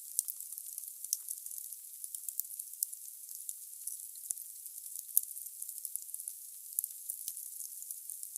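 Wood fire burning in a fireplace: firewood crackling with a thin, steady hiss and frequent sharp, irregular pops, one louder pop about five seconds in.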